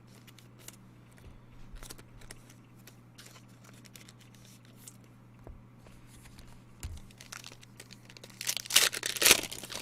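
Card pack wrapper crinkling and tearing open in a loud burst of about a second near the end, after several seconds of faint clicks and rustles of trading cards being handled.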